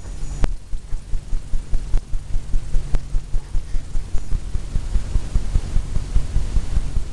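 Fan brush loaded with oil paint tapped repeatedly against a stretched canvas, dull low thumps about five a second, dabbing on foliage.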